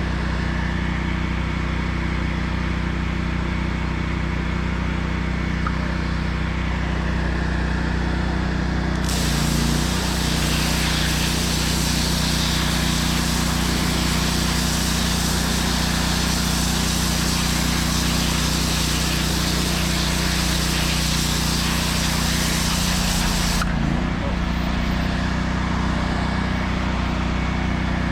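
Pressure washer engine running steadily, with the high-pressure spray switched on about nine seconds in: a loud hiss of water blasting concrete slurry off the pavement that cuts off suddenly a few seconds before the end.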